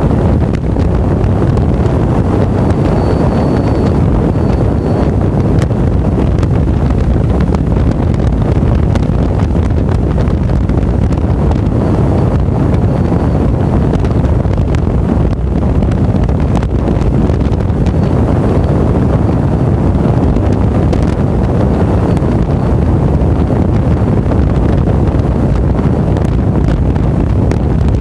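Steady, loud wind buffeting on the microphone of a camera on a moving motorcycle, with the motorcycle's running and road noise underneath.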